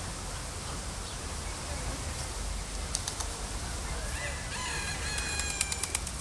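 A bird calling with a quick run of high chirps and ticks over about a second and a half near the end, with a few sharp high ticks a little before, over a steady low background rumble.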